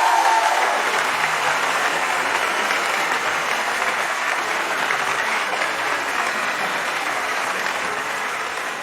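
Audience applauding, a steady dense clapping that begins to taper off near the end.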